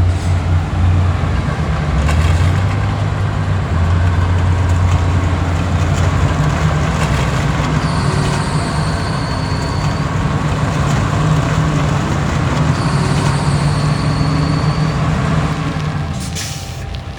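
Heavy earthmoving machine's diesel engine running hard, its pitch stepping up about six seconds in as it takes on more load or revs. A thin high squeal comes twice, each lasting about two seconds.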